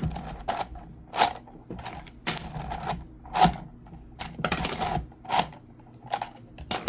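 Hard plastic clicks and clacks of a 3D-printed crossbow magazine being cycled by hand, its parts snapping into place. About a dozen sharp clicks come at irregular intervals, with a quick cluster near the middle.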